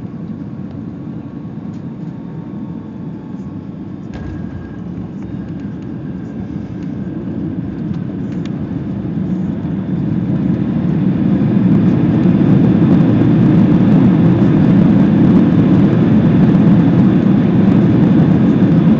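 Jet airliner cabin noise during the landing: a steady low rush, with a single knock about four seconds in. The rush swells to a much louder roar between about eight and twelve seconds in and holds there.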